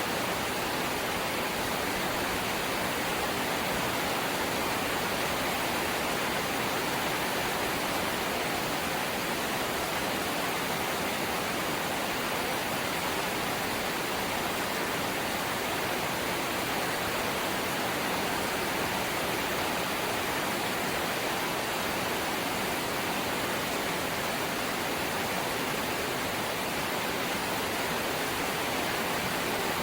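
Rain falling steadily on a corrugated zinc (seng) house roof: a dense, even hiss with no separate drops standing out.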